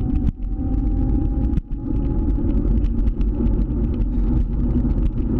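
Motor scooter running steadily while riding, with dense low rumble and a faint whine that rises slightly over the first second and a half. The sound dips briefly twice.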